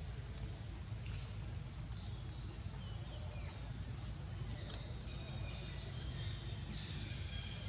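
Outdoor ambience: a steady high-pitched drone with a low rumble underneath, and a few faint short chirps.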